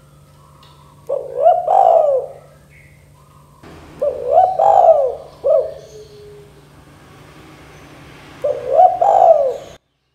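Spotted dove (tekukur) cooing: three phrases of a few coos each, over a steady low hum. The sound cuts off abruptly just before the end.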